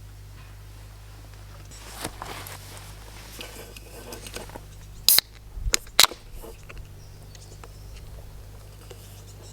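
Handling noises: a stretch of rustling, then two loud sharp clicks about a second apart, with a low hum underneath.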